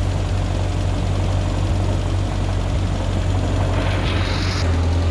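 Ford 8N tractor's four-cylinder flathead engine running steadily under way, with a strong low hum, heard from the seat. A brief hiss joins it about four seconds in.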